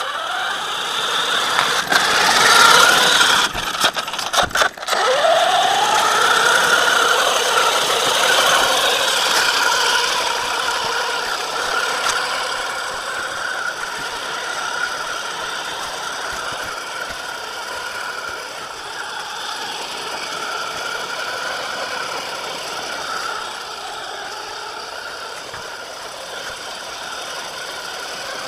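Small nitro glow engine of a 1/8 scale RC monster truck running at a high buzz, faltering briefly about four seconds in, then revving back up. It settles into steady running and grows fainter over the second half.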